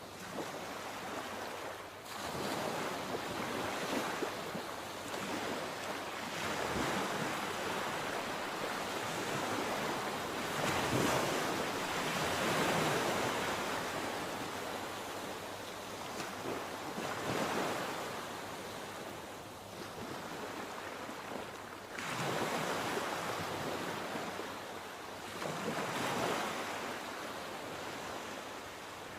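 Sea waves breaking and washing ashore in slow surges, each swell rising and falling away every few seconds, with some wind on the microphone.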